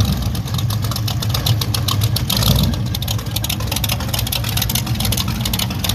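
A car engine running with a steady low rumble and rapid, even exhaust pulses.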